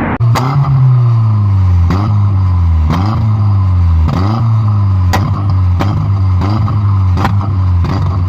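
Car engine revved in short blips about once a second, each rising sharply and dropping away, with a sharp crack at each blip.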